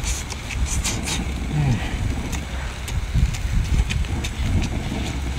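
Wet chewing and lip-smacking from a man eating noodles and crab close to the microphone, many short sharp clicks, over a steady low rumble.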